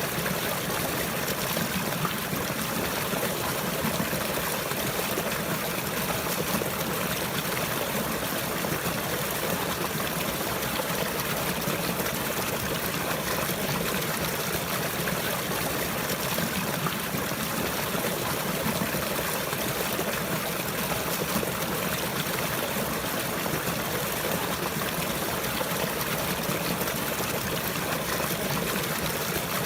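Water flowing and trickling steadily, an even rushing with no breaks or changes.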